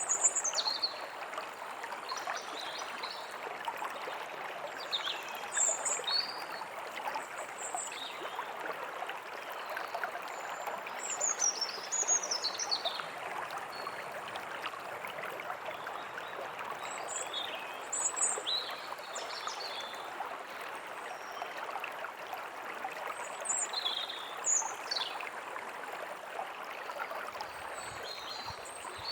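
A stream running steadily, with songbirds chirping and whistling over it in short, scattered phrases.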